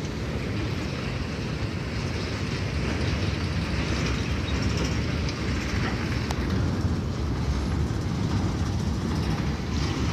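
Freight cars of a Norfolk Southern mixed freight train rolling past: a steady rumble of wheels on rail.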